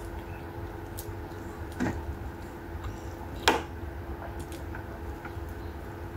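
Close-up eating sounds of someone eating raw leafy greens (ulam) with rice and fish by hand: chewing, with a few short wet mouth clicks, the sharpest about three and a half seconds in, over a steady low hum.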